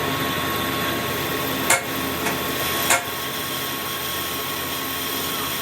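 Two sharp hammer blows on metal, about a second apart, over the steady hum of running machinery.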